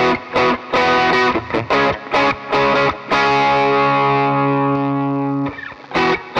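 Electric guitar through a DemonFX Gravity distortion pedal, playing short chugged chords at about four a second, then one chord held ringing for about two seconds that cuts off, followed by more chugging.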